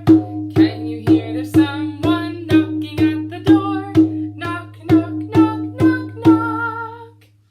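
Strummed acoustic string instrument keeping a steady beat of about two strums a second over a sustained low note, fading out near the end.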